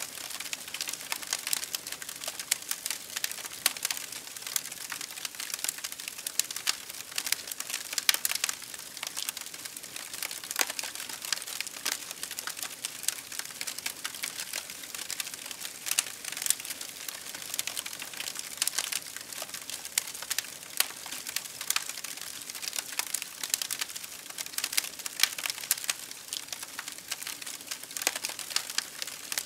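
Campfire burning with constant irregular crackling and popping over a soft hiss of the flames.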